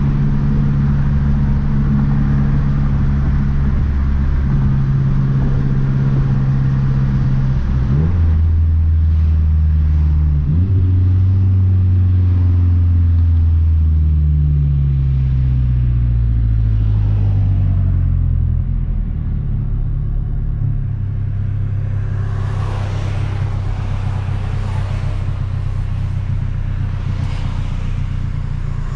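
A big-turbo 2012 Mazdaspeed 3's turbocharged 2.3-litre four-cylinder running while the car drives. The engine note steps in pitch about eight and ten seconds in, then falls over several seconds as the car slows, and steadies. Near the end more rushing noise rises over the engine.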